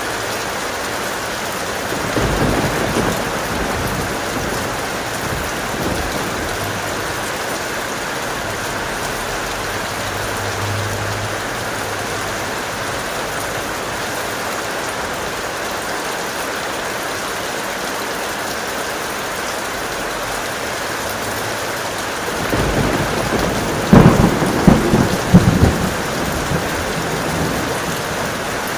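Steady heavy rain with thunder. A brief low rumble comes about two seconds in; near the end a louder thunderclap rumbles and cracks several times.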